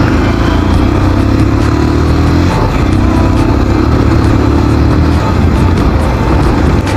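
Motorcycle engine running steadily under way, its note shifting about two and a half seconds in, with wind and road noise.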